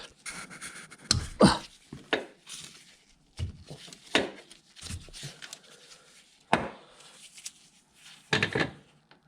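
A spanner working the cam belt tensioner bolt on a Suzuki Alto engine: irregular metallic knocks and clunks, about six or seven spread out, with a double knock near the end, as the bolt is loosened to slacken the belt tension.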